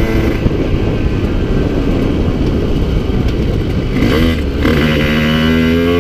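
Yamaha TZR50 two-stroke single, bored out to 70cc, off the throttle for about four seconds with mostly wind and road noise, then a brief wavering blip of revs before it pulls away again with a buzz that rises steadily in pitch. The engine's top end is worn, leaving it down on power.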